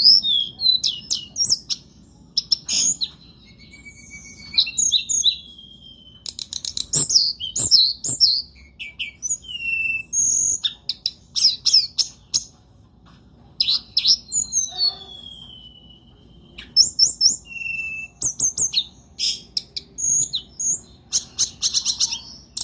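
Songbird singing a long, varied song of rapid trills of repeated notes and clear whistles, with a long falling whistle about two-thirds of the way through.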